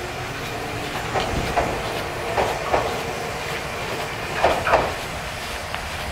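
Nagoya Railroad (Meitetsu) electric train running through the station over steady running noise, its wheels clacking in three pairs over the rail joints.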